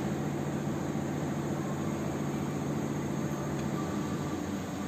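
Holden Commodore VE's V6 engine idling, a steady hum heard from inside the cabin.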